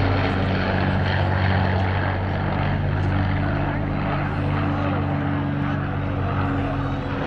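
De Havilland Mosquito's twin Rolls-Royce Merlin V12 engines droning steadily in a propeller flyby pass.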